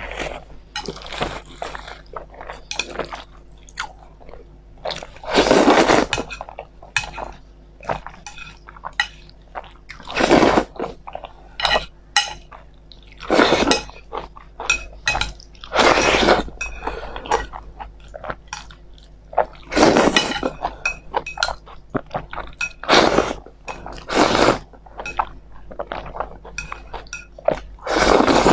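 Close-miked eating sounds of a person eating spicy instant noodles and boiled eggs: chewing and utensils clinking against the dish, with a louder burst every few seconds.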